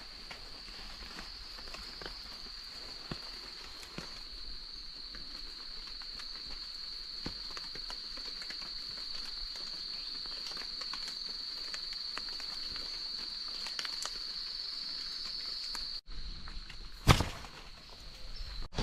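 Steady high-pitched insect chorus, with scattered light clicks and knocks, and one sharp loud knock near the end.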